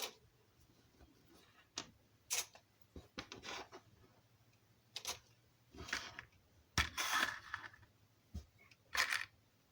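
Small plastic and metal parts of a rolling road kit being handled and set down on a bench: scattered sharp clicks and taps every second or two, with a few short rustles in between.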